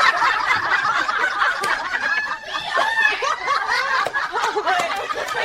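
Several people laughing and snickering together at once.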